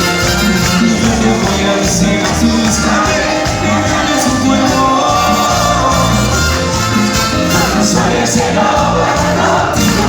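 Live Latin dance band playing loud with a steady beat, with a crowd singing and shouting along.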